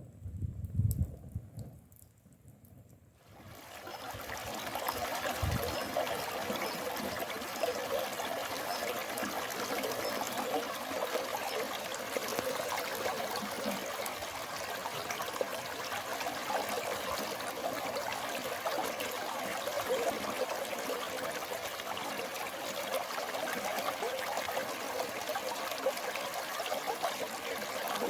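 Stream water flowing and trickling steadily. It comes in about three seconds in, after a few low thumps.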